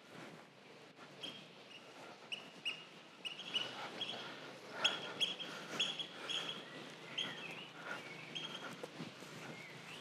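Small birds chirping: many short, high, repeated chirps, thickest around the middle.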